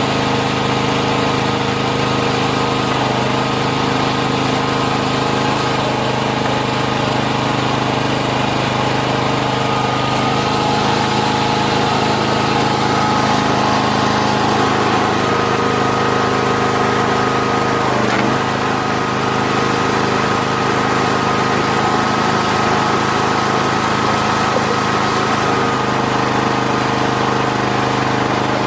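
Engine of a 40-ton hydraulic log splitter running steadily, its tone shifting slightly a few times.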